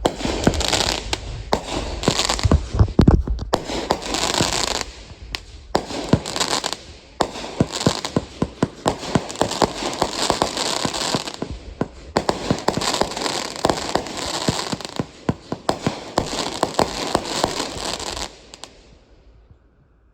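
Consumer fireworks going off: waves of dense, rapid crackling pops, with deep booms in the first few seconds. The crackling dies away about 18 seconds in.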